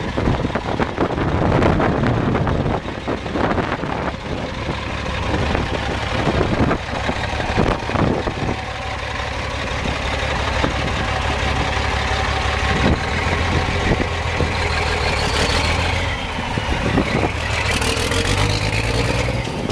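1990 Peterbilt 375 semi truck's diesel engine running, with the revs rising twice near the end.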